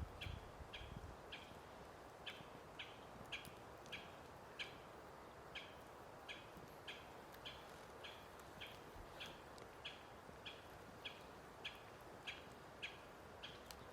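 A single bird repeating one short chirp, about two a second at a fairly even pace, over faint outdoor background hiss.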